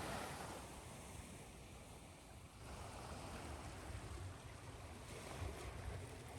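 Ocean waves washing in on a shore, a steady hiss that swells with each wave, mixed with white noise and a low rumble.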